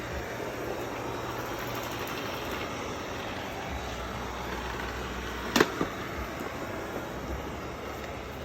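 Robot vacuum running with a steady whir and low hum, with one sharp knock about five and a half seconds in and a smaller one just after.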